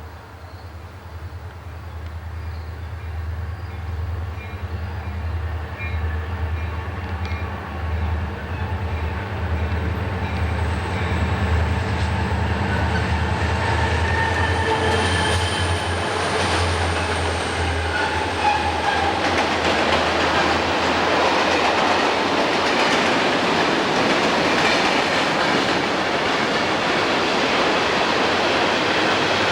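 A diesel-hauled train approaching and passing: a low engine drone that grows louder over the first ten seconds or so, then the steady rumble and clatter of rail cars rolling by.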